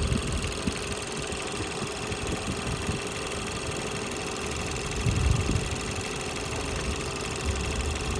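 Ford Edge engine idling steadily, a running hum with a brief low thud about five seconds in.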